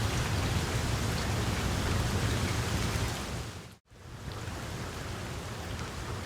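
Wood fire crackling in a fireplace: a steady hiss with small scattered pops. Just before four seconds in it fades briefly to silence, then resumes a little quieter.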